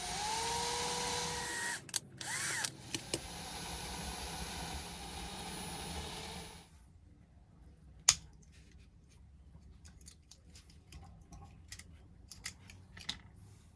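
Small electric drill running, its pitch rising as it spins up, with a short break about two seconds in, drilling out the base rivets of a diecast toy car. It cuts off about halfway through, and light clicks and taps of small metal and plastic parts follow, with one sharp click.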